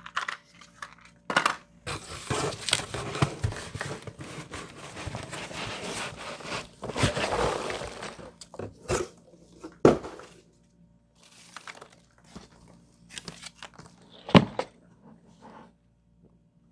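Packing material crinkling and rustling as a parcel is unpacked, for about seven seconds, followed by a few sharp knocks and taps from handling the package.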